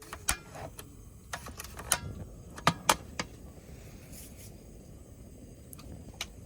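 Irregular sharp clicks and knocks, about nine in all, with a tight cluster a little under three seconds in, over a low steady background.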